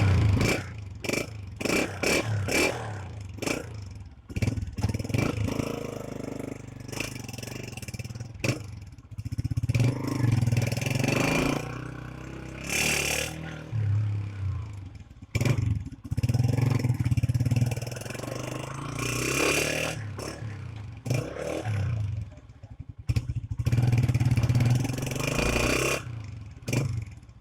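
Atlas Honda CG125's single-cylinder four-stroke engine riding at low speed, the throttle opened and closed again and again so the exhaust note keeps rising and falling, with rattling and scraping knocks mixed in.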